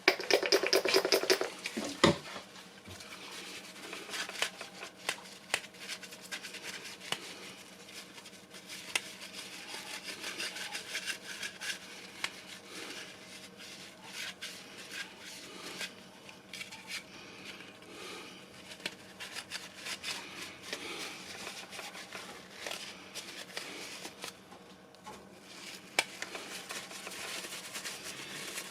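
Small hard objects being handled on a workbench: scattered light clicks, taps and scrapes. At the start a short loud pulsing buzz ends in a sharp click about two seconds in.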